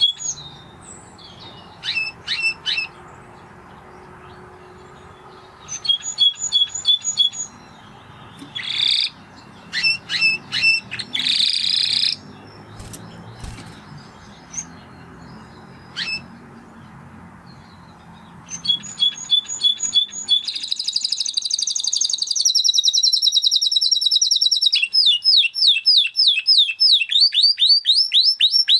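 Domestic canary singing: short phrases of rapidly repeated notes with pauses between them, then, about two-thirds in, one continuous fast trill that turns into a quick run of down-sweeping notes near the end.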